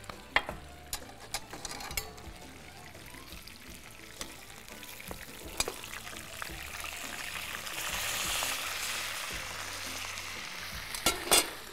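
Chicken pieces frying in hot oil in a frying pan, sizzling, with metal spatula and ladle clicking against the pan as the pieces are turned. The sizzle grows louder about seven seconds in, and a few sharp knocks come near the end.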